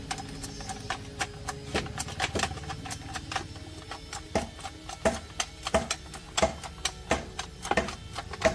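Irregular series of sharp metal taps and clicks, about two to four a second, some leaving a brief ring, over a low steady hum.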